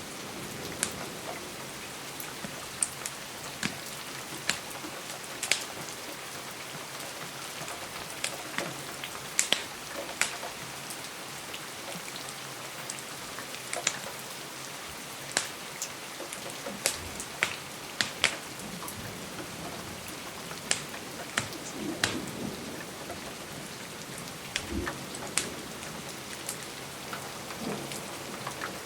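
Steady rain on a window, with sharp irregular crackles and pops from a wood fire laid over it, about one or two a second. A few dull low thuds come past the middle.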